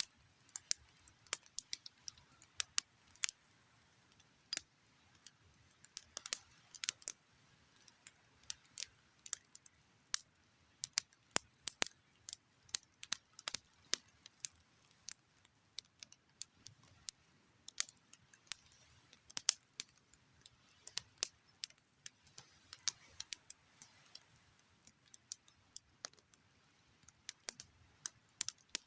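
Campfire crackling: burning wood giving off irregular sharp pops and snaps, several a second, over a quiet background.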